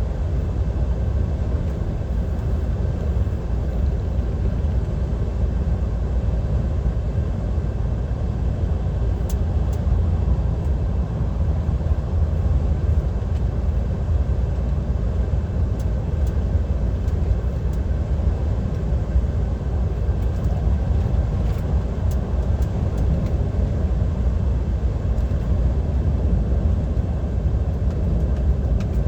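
Steady low drone inside the cab of a DAF XF 530 lorry running at motorway speed: diesel engine, tyre and wind noise with no change in pitch, plus a few faint clicks.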